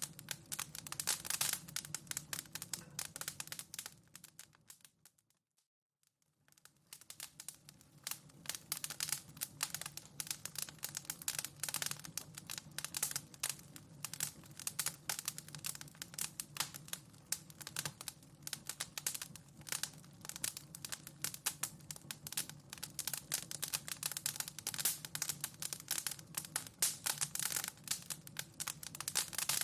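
Fireplace fire crackling and popping in dense, irregular snaps. About four seconds in it fades out to a moment of silence and fades back in, the seam of the loop.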